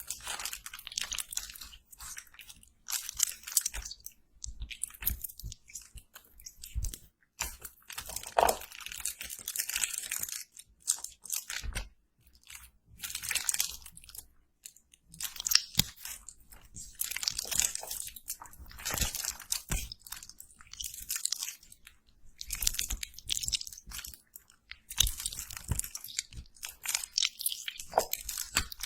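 Close-miked crunchy chewing and biting, in repeated crackly bursts every second or two with brief pauses between bites.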